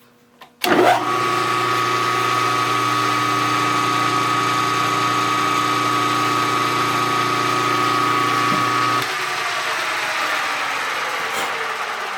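Milling machine spindle starting up and running steadily, turning a boring head to take a cut in a bearing bore. About nine seconds in the sound changes and then slowly dies away.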